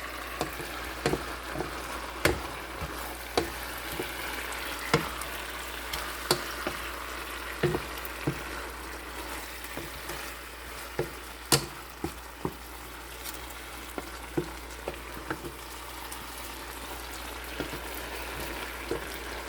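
Bitter gourd and salted dried parrot fish sizzling in a hot frying pan as they are stirred, with a steady hiss and irregular knocks of the spatula against the pan.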